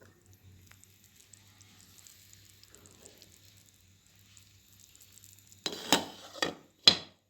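Faint sizzling from meatballs cooking on low heat in a pan. Near the end come a few loud metallic clinks and clatters of cookware.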